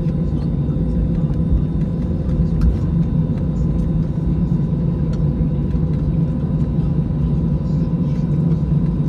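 Airbus A320 jet engines running at a steady setting: a loud, unchanging low rumble with faint steady tones above it.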